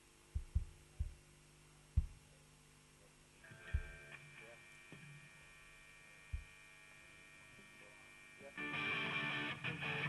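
A rock band getting ready to play over an amplifier's hum: five scattered low thumps, then a held electric guitar chord ringing from about three and a half seconds in. Near the end the band comes in loudly with the song's intro.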